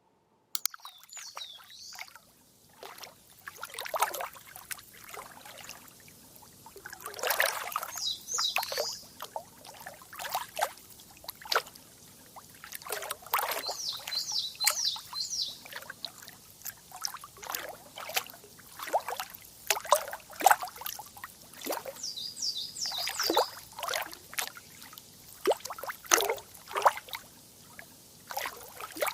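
Running water trickling and splashing in irregular spurts. A bird calls in short runs of rapid high chirps four times.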